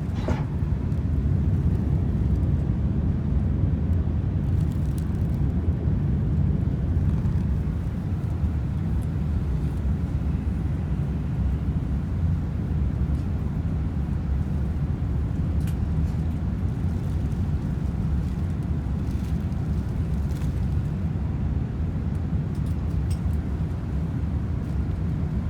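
Steady low rumble of an Airbus A380's four jet engines and the rushing air, heard inside the passenger cabin.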